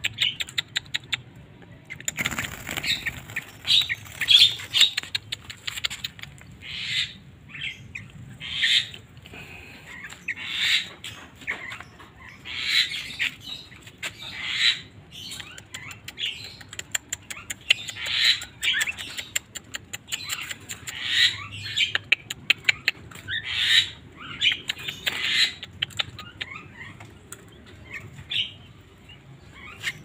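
Small birds chirping: short, high calls repeated every second or two, with runs of rapid ticking in between.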